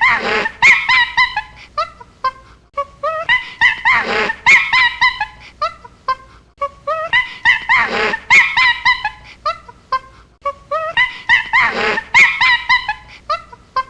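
An animal call repeated about every four seconds: a run of short notes climbing in pitch, ending each time in a loud, harsh cry.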